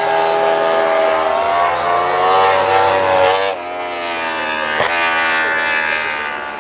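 Yamaha MotoGP racing engine, an inline-four, revving hard. It holds high revs, climbs over a second or so, then drops off sharply about three and a half seconds in, with a brief sharp crack about a second later.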